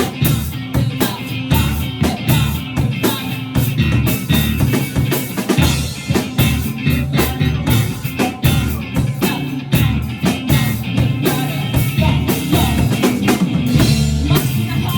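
A live rock band playing an upbeat song: drum kit with bass drum and snare hits in a steady beat, bass and electric guitar.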